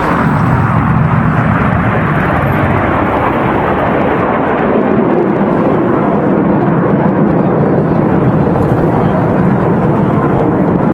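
Jet aircraft flying past: a loud, steady rushing engine noise, its low tone falling slightly in the first two seconds.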